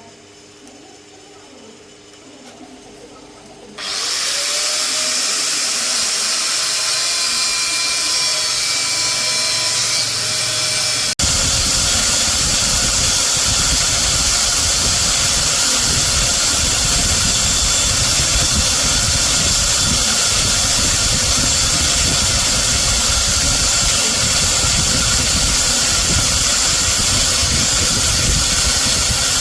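A power tool starts up about four seconds in and runs steadily with a rising motor whine. From about eleven seconds in it cuts into metal with a harsher, louder noise, destroying the broken main-stand pivot shaft of a Honda Wave motorcycle to remove it.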